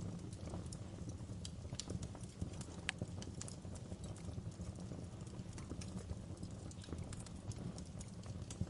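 Wood fire crackling in a fireplace: irregular sharp pops and snaps of burning logs over a steady low rumble of the flames.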